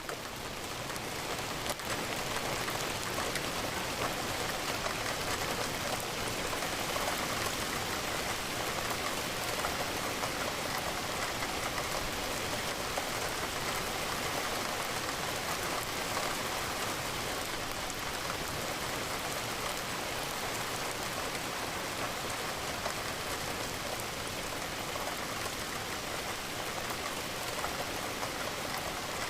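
Steady rain falling, drops pattering against a window pane in an even, unbroken hiss.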